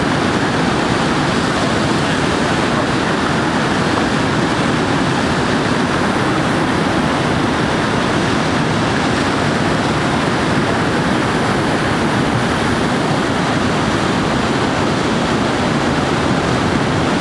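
Whitewater of the Skookumchuck tidal rapids rushing steadily, a dense, even noise with no let-up.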